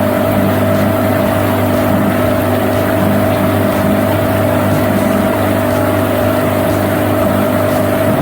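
Boat's outboard motor running steadily at an even pitch.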